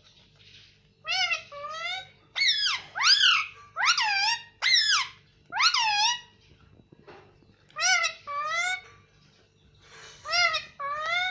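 Indian ringneck parrot calling in shrill pitched notes: two-note phrases about a second in, about eight seconds in and near the end, with a run of louder arching calls in between. A faint steady low hum runs underneath.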